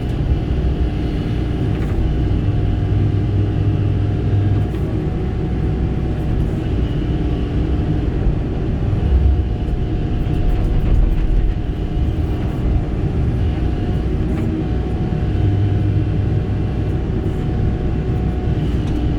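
Kobelco SK85 excavator's diesel engine running steadily as the machine works, a constant rumble with a steady whine over it and a low drone that swells briefly a couple of times.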